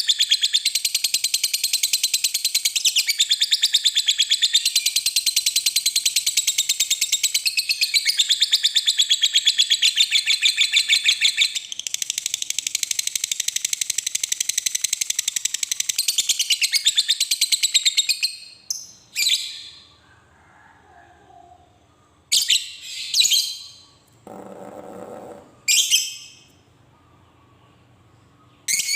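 Lovebird's long 'ngekek' call: a very rapid, high-pitched chattering trill held unbroken for about eighteen seconds, then breaking off into a few short separate shrieks.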